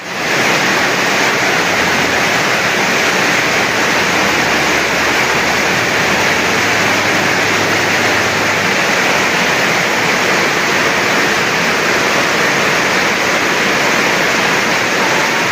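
Loud, steady rush of water, an even hiss with no break or change.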